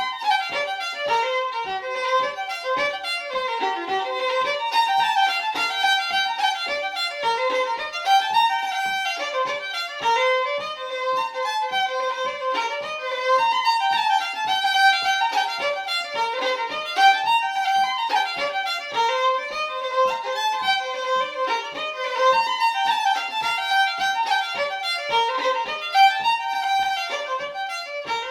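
Fiddle playing an Irish reel at a quick, steady pace in fast runs of notes.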